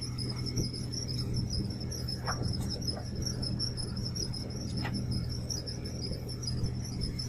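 High-pitched insect trilling steadily in fast pulses over a low steady hum, with a few faint taps.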